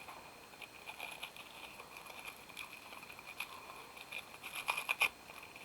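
Rustling and crinkling of packaging as a statuette is unwrapped, with scattered small clicks and a few sharper crackles just before the end.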